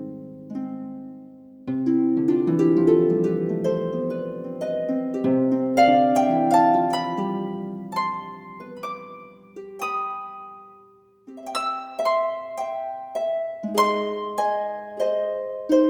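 Background music: a slow melody of plucked, harp-like notes, each ringing out and fading, with a short lull a little past the middle before the notes pick up again.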